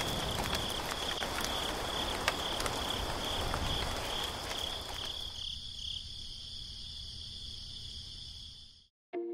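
Rain falling, with crickets chirping steadily in a high, slightly pulsing tone. The rain noise fades out about halfway through, leaving the crickets, and everything cuts off just before the end.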